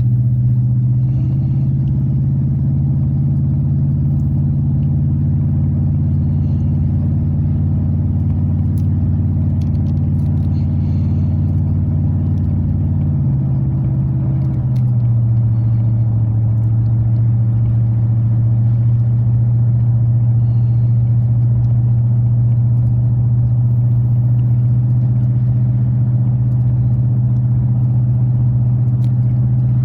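Truck engine and FlowFX exhaust droning steadily, heard inside the closed cab of a 2003 Chevrolet Silverado 2500HD while cruising. The engine note changes about 13 to 15 seconds in, then settles back into a steady drone.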